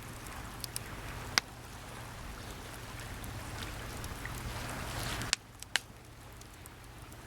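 Sea waves washing on the shore, building up and then falling away sharply about five seconds in. A wood campfire gives a few sharp crackling pops over it.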